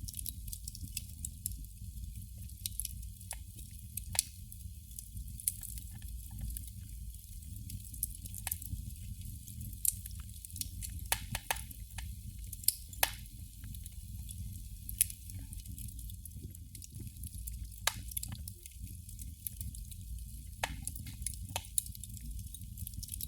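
Candle flame crackling: irregular sharp ticks and pops, a few louder than the rest, over a steady low hum and faint hiss.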